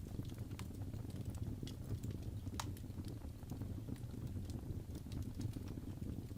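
Wood fire crackling in a fireplace: irregular sharp pops and snaps over a steady low rumble, with one louder pop about two and a half seconds in.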